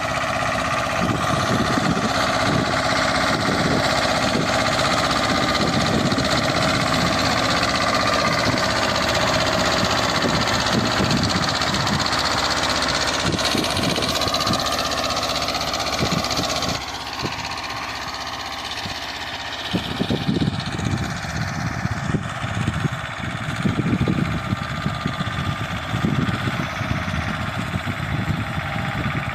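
Escort 325 tractor's diesel engine running steadily while pulling an 11-tine cultivator. About 17 seconds in it drops in level and tone, and from about 20 seconds it runs with uneven low pulses.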